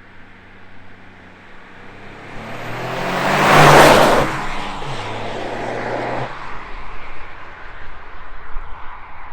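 Toyota GR Yaris's turbocharged 1.6-litre three-cylinder engine, breathing through a Milltek exhaust and downpipe, running past: the sound builds to a loud peak about four seconds in, holds a steady low engine note briefly, then fades away.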